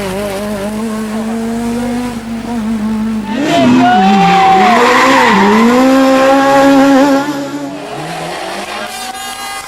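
Peugeot 206 S1600 rally car's high-revving 1.6-litre four-cylinder engine passing at speed, its pitch dropping and climbing again as the driver lifts and shifts through the gears. It is loudest in the middle, about three and a half to seven seconds in.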